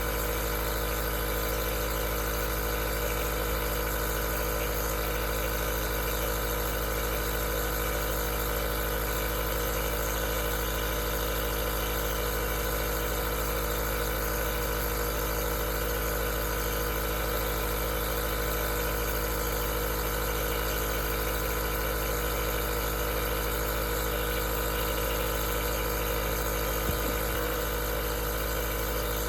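Aerosol nebulizer's compressor running steadily: an even mechanical hum of several steady tones over a constant hiss.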